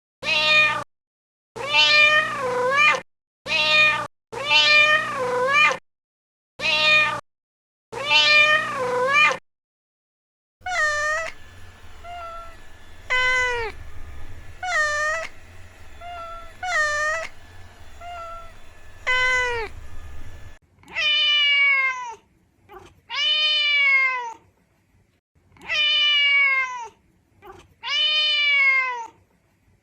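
Kittens meowing: a long string of separate high-pitched meows, roughly one every second or two. The last few are longer and slide down in pitch.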